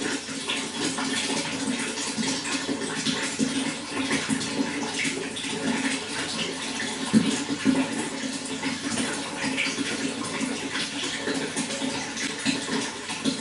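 Running water flowing steadily: a continuous rush with many small splashes and gurgles.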